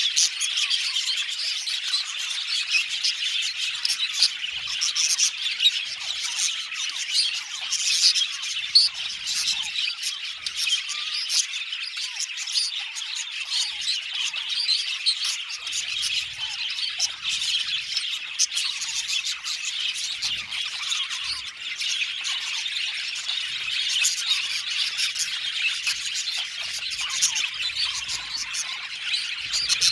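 A flock of budgerigars chirping, warbling and squawking all at once: a dense, unbroken chatter of many short, high calls overlapping throughout.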